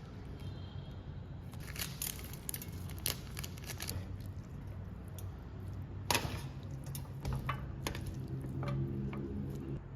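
Close-up eating sounds of spicy noodles and eggs: a series of sharp clicks and wet, squishy noises, the loudest click about six seconds in, over a steady low hum.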